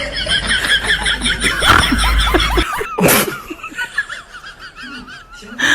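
People laughing hard in high, wavering peals, with a short noisy burst about three seconds in.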